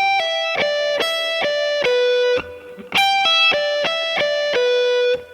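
Electric guitar playing a descending E minor pentatonic sequence of single notes, with pull-offs from the 15th to the 12th fret across the high E and B strings. It is played twice, and each run ends on a held note.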